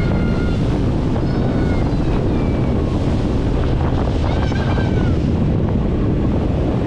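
Wind buffeting the microphone on a moving tour boat, over the steady running of the boat's engine and the rush of water.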